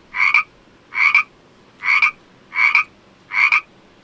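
A frog croaking over and over: about five short, evenly spaced croaks, each a quick double pulse, with brief pauses between them.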